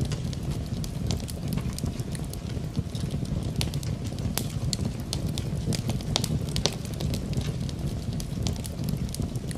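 Wood fire in a fireplace crackling, with many sharp irregular pops over a steady low rumble, blended with the even hiss of falling rain.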